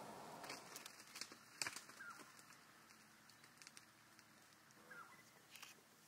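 Near silence of the bush, with a few faint short bird chirps and scattered soft clicks, the loudest click about a second and a half in.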